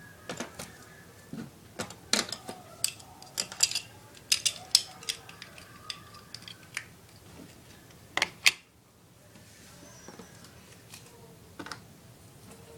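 Small hard plastic toy pieces being handled, a quick irregular run of clicks and clacks for about eight seconds, then a few faint clicks near the end.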